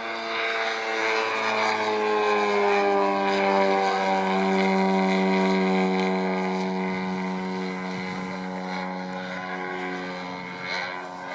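3W 157 cc petrol engine of a large-scale Piper model aeroplane running in flight, passing by: it grows louder to a peak about four to five seconds in, its pitch dropping slightly, then fades away.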